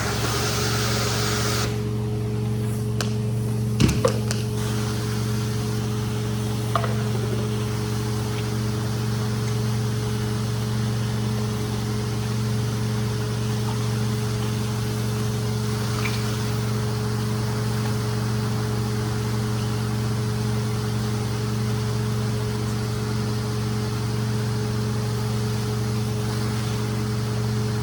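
A machine running steadily: an even hum with a hiss over it, with a short knock about four seconds in.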